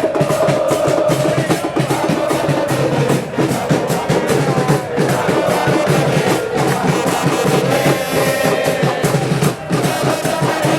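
Football supporters' drum band beating bass drums and snare drums in a fast, steady rhythm, with a wavering tune carried above the drums.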